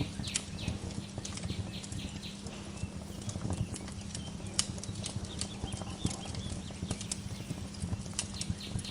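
Wood fire crackling in a fireplace: irregular sharp pops and snaps over a steady low rumble. Short bird chirps come in near the start and again near the end.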